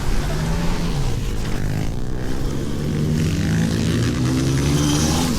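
Small motorcycle engines running and revving, pitch rising and falling, with one engine climbing steadily in pitch over the last couple of seconds.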